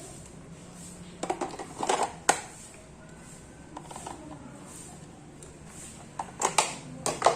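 Clatter and sharp clicks of hard objects being handled and set down: a quick run of knocks about a second in, and another near the end.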